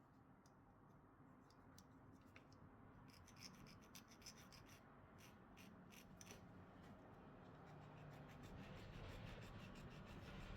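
Faint scratching and scraping with many small sharp ticks, like hand-tool work on a small die-cast metal toy car, growing busier a few seconds in.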